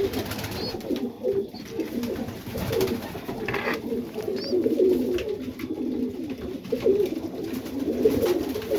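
Many Serbian Highflyer pigeons cooing at once in a small loft, a continuous overlapping rumble of coos. A few short high chirps sound over it.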